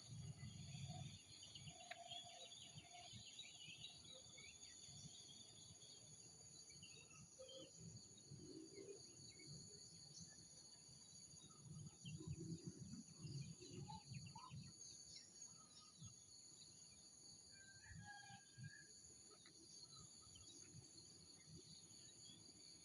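Faint outdoor ambience: a steady high-pitched insect chorus, with scattered short bird chirps.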